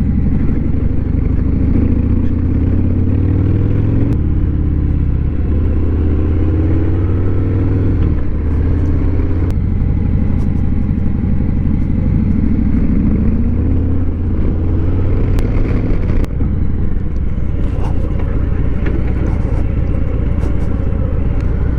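Motorcycle engine running steadily while riding, heard from the bike itself, its pitch rising a few times as it accelerates through the gears.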